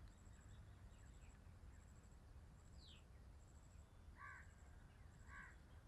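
Near silence, with two short, faint bird calls about four and five seconds in.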